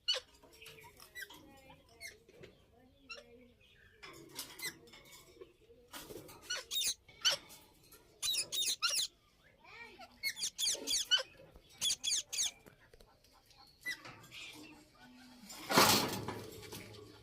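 Indian ringneck parakeets calling: repeated clusters of short, high, warbling chirps and squeaks, with one loud harsh squawk near the end.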